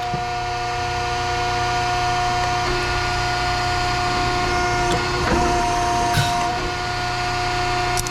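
Steady mechanical hum made of several held tones, with a few light knocks or clatters about five and six seconds in.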